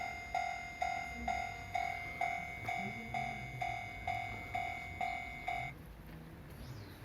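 Japanese railway level-crossing warning bell ringing in an even rhythm of about two strikes a second, then stopping a little over five seconds in.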